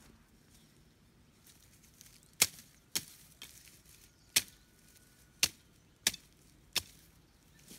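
Six sharp chopping strikes of a hand tool, unevenly spaced, with short gaps between them.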